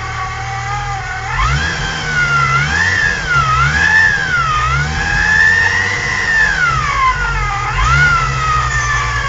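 Supercharged VW VR6 engine on its first runs, idling, then revved up and down in several swells from about a second in, with a high whine that rises and falls with the revs. It settles back to a steady idle near the end.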